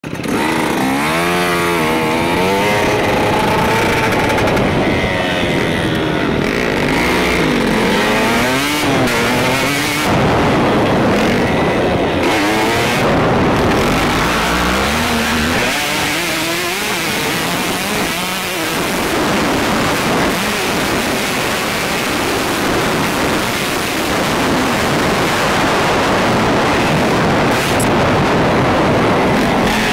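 Motocross bike engine revving up and down as it is ridden hard around the track, heard from a helmet camera, its pitch rising and falling over and over with gear changes and throttle.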